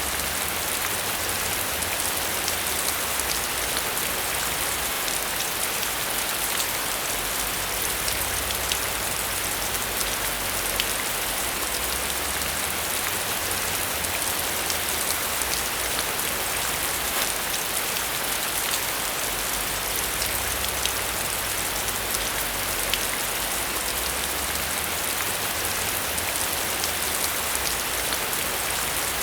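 Steady rain falling, a dense even hiss of drops with many small sharp drop ticks, and a low rumble underneath that swells and fades.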